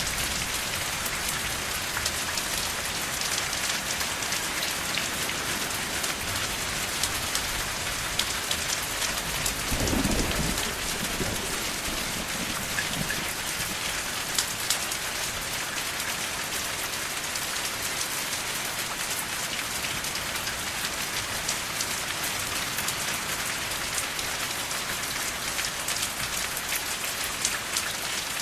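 Steady rain falling on a surface, with fine drop ticks through it. About a third of the way in there is one brief low rumble.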